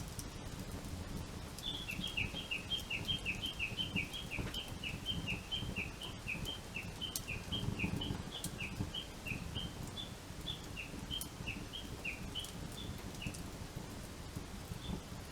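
A songbird calling a long run of short, high, downward-slurred notes, quick at first and then slower and more widely spaced, for about ten seconds, over a steady low rushing noise with scattered sharp clicks.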